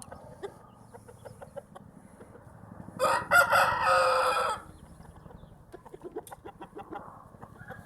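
A Shamo gamecock crows once, a single harsh call of about a second and a half starting about three seconds in, with faint clucking around it.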